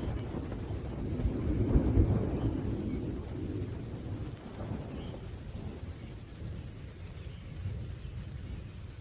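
Thunder rumbling low and rolling, swelling about two seconds in and then fading away, over light rain.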